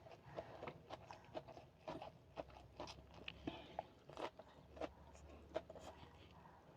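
A person eating close to the microphone: faint, irregular chewing and biting with small crunches and mouth clicks.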